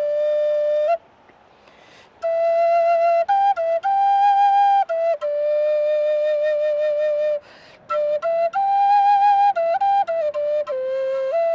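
A slow solo flute melody of long held notes with a light wavering in pitch. It pauses for about a second near the start and breaks briefly a little past the middle.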